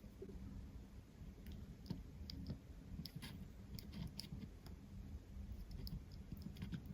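Faint, scattered light clicks and taps of small phone parts and tools being handled over a low steady hum.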